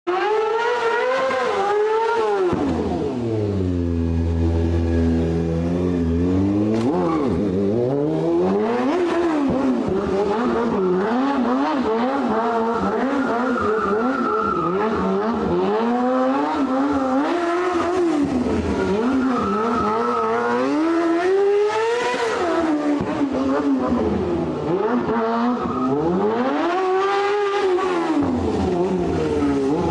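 Motorcycle engines revving, the pitch rising and falling again and again with long sweeps up and down.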